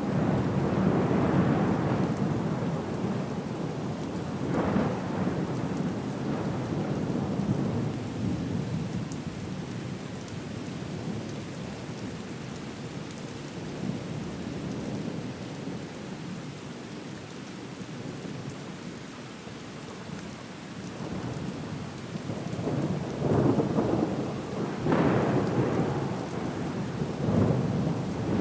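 Recorded rainstorm: steady rain with rumbles of thunder. The rumbles swell near the start, briefly around five seconds in, and several times near the end.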